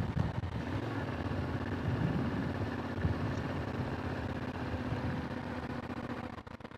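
Yamaha Tenere 700 motorcycle's parallel-twin engine running at steady revs, cutting off sharply near the end.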